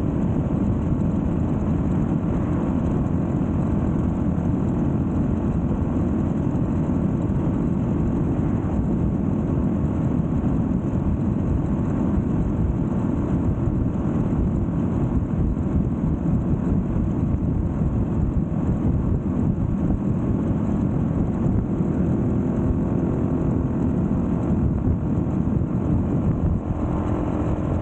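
Yamaha motorcycle riding at a steady speed: engine running evenly under a dense rumble of wind and road noise, with no gear changes or revving.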